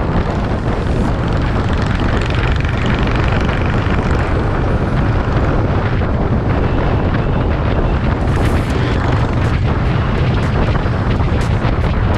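Steady, loud rush of wind buffeting the microphone on a moving vehicle, with a heavy low rumble underneath.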